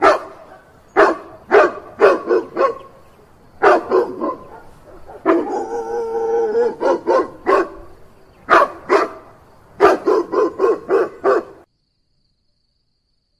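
A dog barking in quick runs of sharp barks, with one longer drawn-out call about five seconds in; the barking stops shortly before the end.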